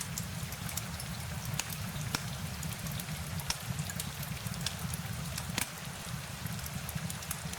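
Steady rain ambience: a continuous low rumbling hiss with scattered sharp ticks.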